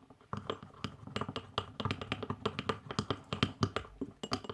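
A spoon stirring dish soap and salt in a bowl, with quick, irregular clicks of the spoon against the bowl, several a second.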